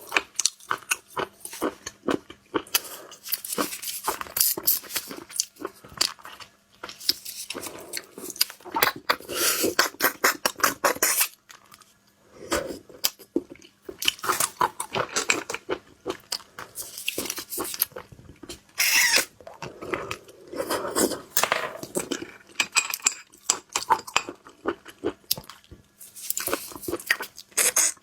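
Close-miked chewing of cooked sliced sea snail: wet smacking and crunching mouth sounds in quick runs of clicks, with short pauses between bites.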